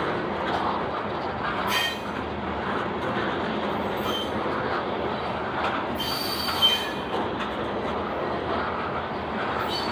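Covered hopper cars of a freight train rolling past, a steady rumble of wheels on rail. Steel wheels squeal briefly about two and four seconds in, with a longer squeal around six to seven seconds.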